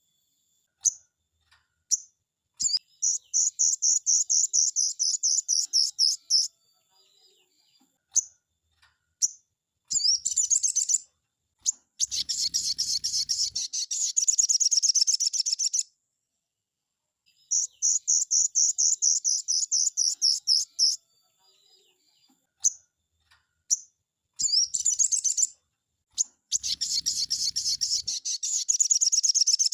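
Sogon (crested jay) song: fast, high-pitched rattling trills in runs of one to four seconds, broken by short pauses and single sharp notes.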